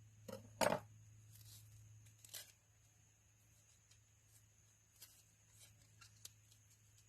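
Dull kitchen knife cutting food, with a few scattered knocks of the blade on a cutting board, the loudest about a second in, over a steady low hum.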